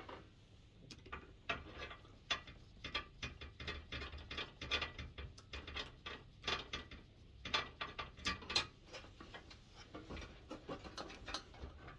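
Screwdriver working a screw on a diesel heater: a long run of irregular light metal clicks and ticks.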